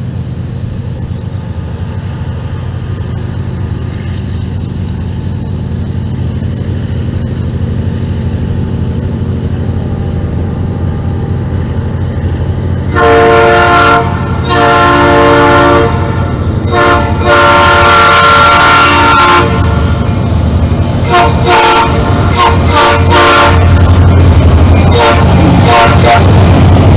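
Norfolk Southern freight train's diesel locomotives approaching with a steady low engine rumble that grows louder. About halfway through, the locomotive's air horn sounds a chord in three long blasts, then a run of shorter blasts, as the rumble swells with the train passing close by.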